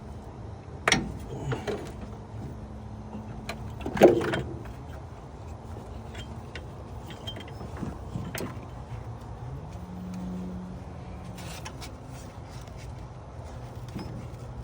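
Spark plug wires being handled and fitted on a car engine: a few sharp clicks and knocks, the loudest about four seconds in, with a brief low hum near the end.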